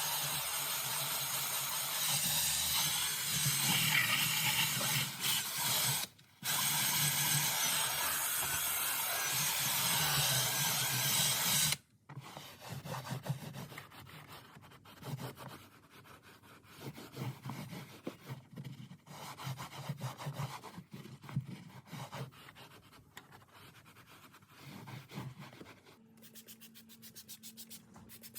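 Drill brush spinning against the truck's interior trim, a steady whirr that stops briefly about six seconds in and cuts off at about twelve seconds. After that come quieter, irregular rubbing and wiping strokes, as of a microfiber towel wiping the cleaner off.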